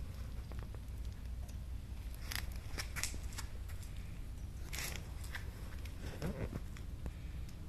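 A black Shiba Inu puppy moving about: scattered short scratchy clicks and rustles, with a brief faint squeak about six seconds in.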